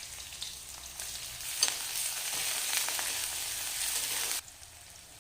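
Sliced onions and whole spices sizzling in hot mustard oil in a kadai as they are stirred, with a sharp utensil knock about a second and a half in. The sizzle drops sharply near the end.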